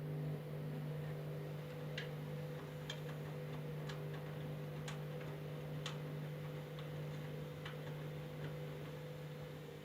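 Candy washing machine running with a steady, even-pitched hum that starts abruptly. Sharp ticks sound over it, about once a second for several seconds, then fainter and more irregular.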